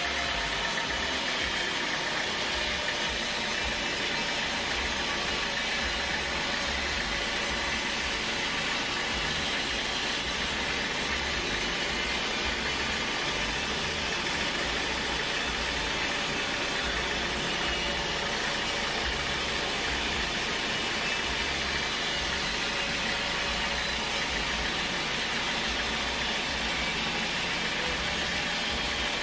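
Sawmill machinery running steadily, a constant engine-driven drone with a hiss over it and no change in level.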